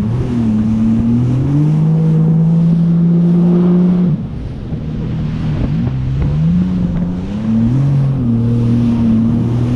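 Jet ski engine running under throttle. Its pitch holds steady, falls suddenly about four seconds in as the throttle eases, then climbs again and settles, with water noise under it.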